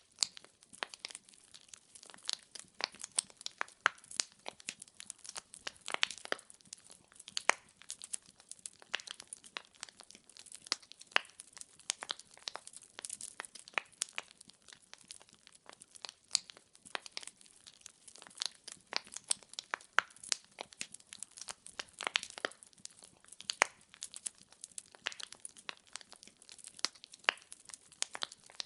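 Wood fire in a fireplace crackling: many irregular sharp pops and snaps from burning logs, several a second, over a faint hiss.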